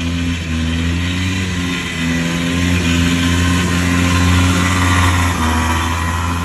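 A vehicle engine running steadily under load, its low hum holding one pitch with a few brief breaks.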